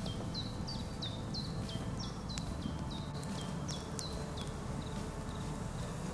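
A small bird calling over and over: short chirps that drop in pitch, about three a second, stopping about four seconds in. Wind rumbles on the microphone underneath.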